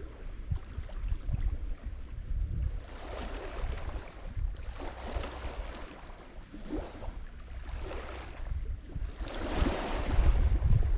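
Lake Michigan waves breaking and washing onto the shore in a few surges of surf, the biggest near the end. A low rumble of wind on the microphone runs underneath.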